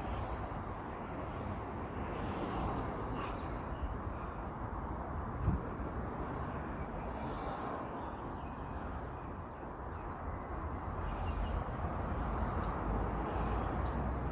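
A bird gives a short, faint, high chirp about every four seconds, four times, over a steady low outdoor rumble, with one brief thump about halfway through.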